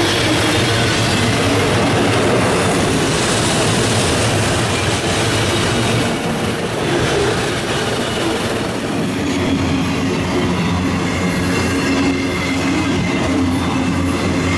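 Freight train rolling past, a steady loud rumble and clatter of cars on the rails, with a thin high wheel squeal for several seconds in the middle.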